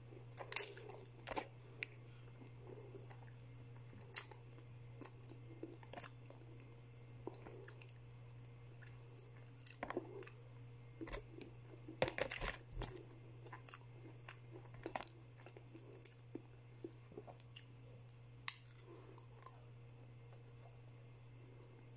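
A person chewing and crunching crispy fried chicken close to the microphone: scattered short crisp crackles and clicks, busiest and loudest about halfway through. A steady low hum runs underneath.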